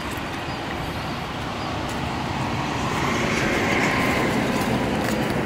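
Steady motor-vehicle noise, rising gently to its loudest about four seconds in and easing off near the end, like traffic going by.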